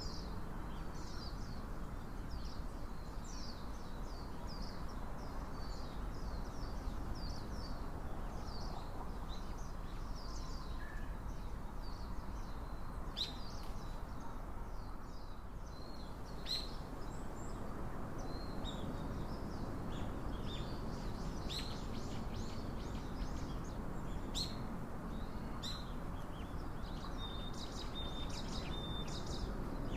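Small birds chirping, many short high calls repeating throughout, over steady low outdoor background noise.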